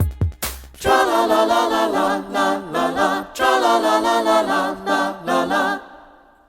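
Final bars of an indie pop song: several voices singing in close harmony, a cappella, after a few sharp percussive hits in the first second. The voices fade out near the end.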